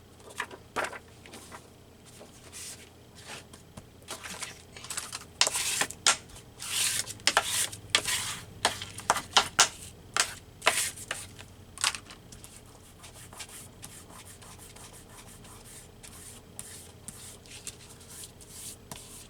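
Collage paper being handled and rubbed by hand, a run of short scratchy rustling strokes that are busiest in the middle and thin out to quieter handling near the end.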